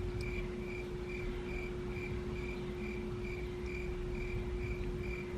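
A steady low hum with a faint high chirp pulsing evenly, about two or three pulses a second.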